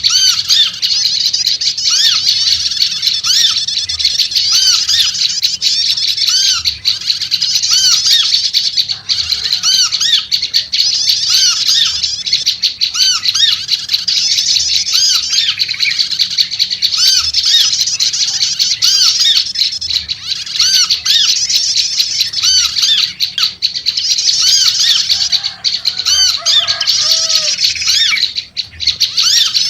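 Prenjak lumut birds calling noisily: a dense, unbroken high-pitched chatter with short arched notes repeating about once a second below it.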